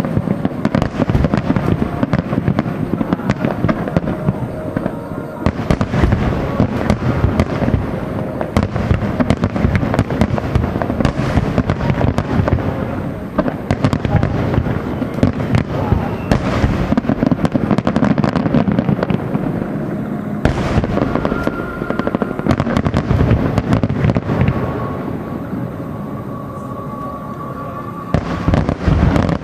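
Aerial fireworks display: a dense, continuous barrage of shell bursts and reports, many overlapping. It eases a little for a few seconds near the end, then a fresh loud volley comes in.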